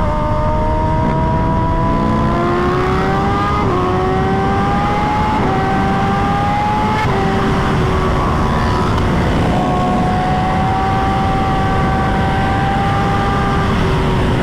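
Motorcycle engine under way, climbing in pitch with a few brief dips as it shifts up, then holding a steady cruise, over heavy wind rumble on the microphone.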